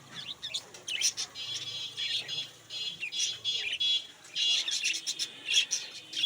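Budgerigars chattering: many short, high chirps overlapping with buzzy, rattling warbles.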